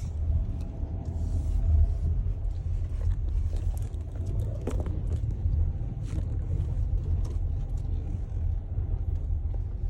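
Low, steady rumble of a car heard from inside the cabin, with a few faint scattered clicks.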